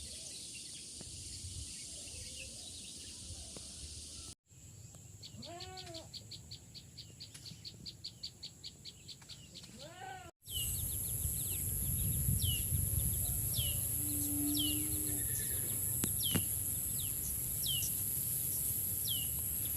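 Outdoor rural ambience of birds chirping, in three pieces joined by hard cuts. The middle piece holds a fast run of short chirps, about five a second. The last holds repeated falling chirps over a steady high-pitched drone.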